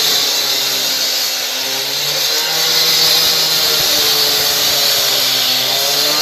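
Power saw cutting into a concrete floor: a steady loud hiss of the blade with the motor's pitch wavering up and down as the load changes.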